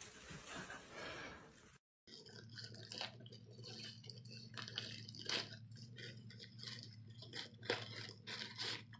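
Faint, irregular wet clicks and crunches of someone eating close to the microphone, over a steady low hum. The sound cuts out briefly about two seconds in.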